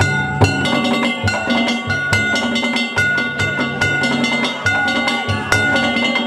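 Danjiri float music: a taiko drum and ringing hand-struck kane gongs played in a fast, steady rhythm.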